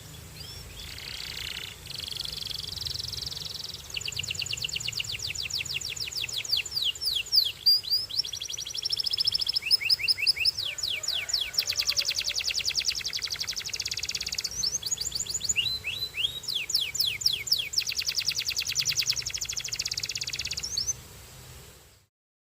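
Canary singing a long song of rapid trills and rolling runs of repeated notes, switching between trill types every second or two. The song stops about 21 seconds in, under a faint steady low hum.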